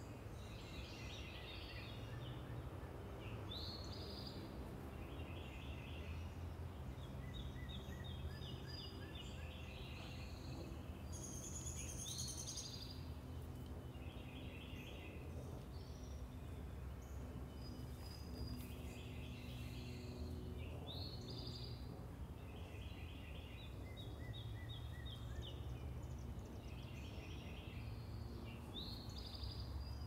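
Birds singing in a backyard, short song phrases repeated every second or two, over a steady low hum of distant traffic.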